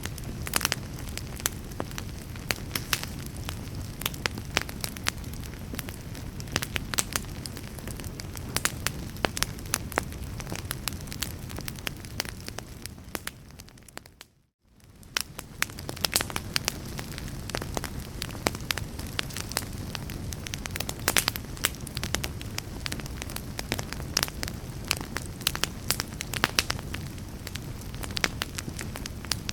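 Wood fire crackling in a fireplace: irregular sharp pops and snaps over a low, steady rumble. About halfway through, the sound fades out to silence for a moment and then fades back in.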